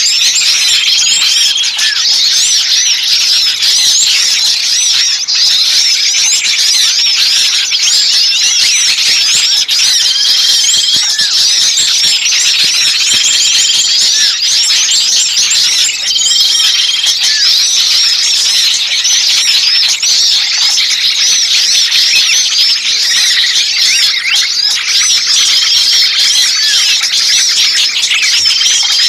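Dense, unbroken chattering of many small songbirds giving agitated alarm calls, with a short steady whistled note that recurs every few seconds. It is a bird-trapping lure recording of noisy, distressed small birds, meant to draw other birds in.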